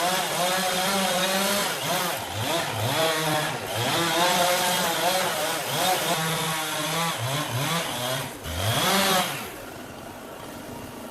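Chainsaw running with its revs rising and falling unevenly, as when working through wood. Its sound drops away about nine seconds in, leaving a quieter steady noise.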